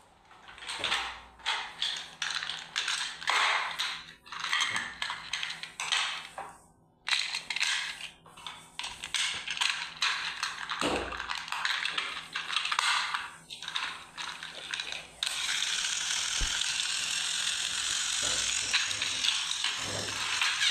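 Small plastic toy gear mechanism, a toy train's, clicking and ratcheting in short uneven bursts, then whirring steadily from about fifteen seconds in.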